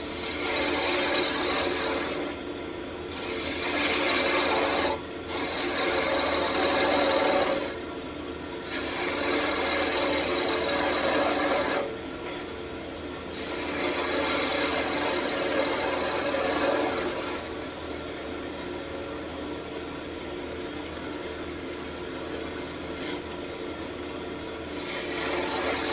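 Wood lathe running with a steady hum while a turning tool cuts the spinning walnut blank in five passes of one to four seconds each, each pass a rough scraping hiss, during the first two-thirds or so; after that the lathe runs on alone.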